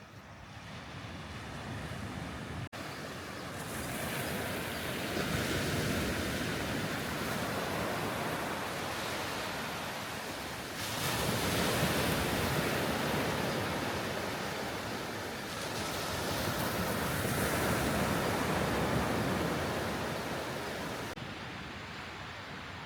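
Sea waves surging and washing in, swelling and easing every few seconds, with wind rumbling on the microphone.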